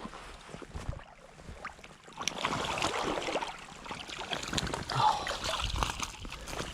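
Water splashing and churning from about two seconds in as a hooked trout thrashes at the surface while it is brought to the net, over a flowing creek.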